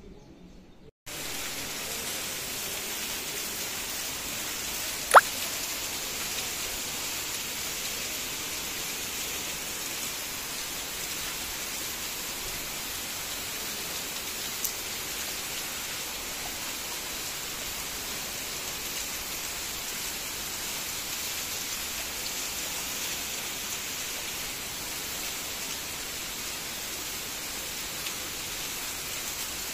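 Torrential rain: a steady, dense hiss that starts abruptly about a second in. A single sharp tap stands out about five seconds in, and a fainter one follows about ten seconds later.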